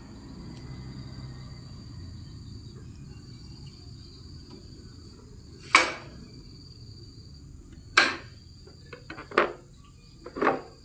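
Four sharp knocks, the first two about two seconds apart and the last two closer together, over a steady high-pitched tone and a low rumble.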